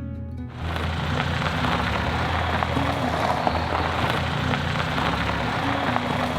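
Heavy rain comes in suddenly about half a second in, a dense steady hiss full of fine pattering drops, with soft guitar music playing beneath it.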